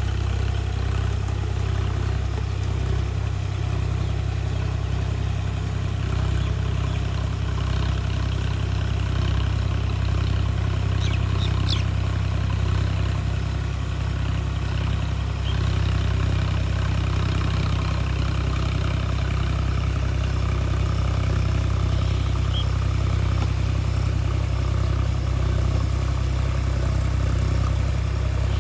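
Sonalika tractor's diesel engine running steadily with a deep, even drone while it puddles a flooded paddy field.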